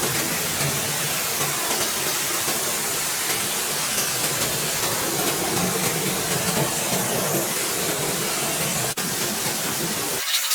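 A spray nozzle hissing steadily, with a low rumble underneath. There is a very brief break about nine seconds in, and the rumble drops away near the end while the hiss carries on.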